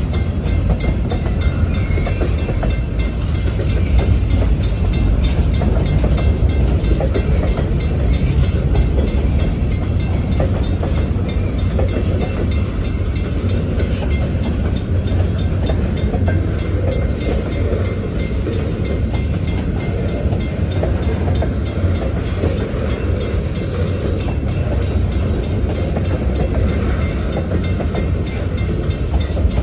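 New York and Atlantic Railway freight train rolling past, its cars making a steady, loud low rumble.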